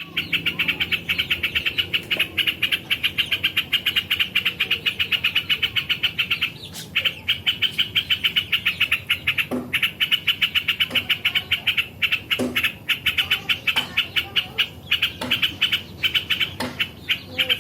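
Yellow-vented bulbul (cerukcuk) singing a fast, unbroken run of short chattering notes, about ten a second. This is the 'ngebren' style of non-stop song that songbird keepers prize. The song breaks briefly a couple of times and becomes choppier in the second half.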